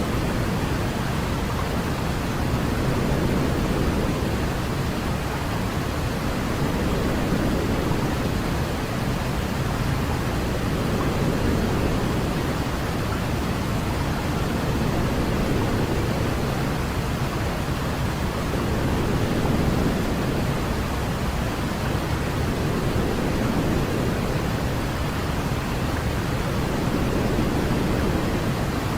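Steady white-noise sleep sound for babies: a deep, even rushing hiss with most of its weight in the low end, swelling and easing slowly every several seconds.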